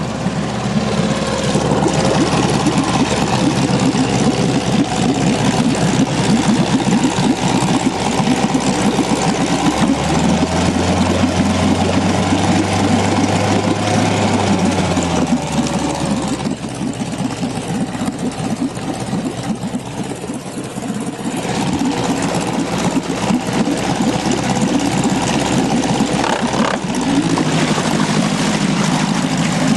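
Dory fishing boat's motor running. Its engine note shifts several times, about a third of the way in, around the middle and again near the end, as the speed changes.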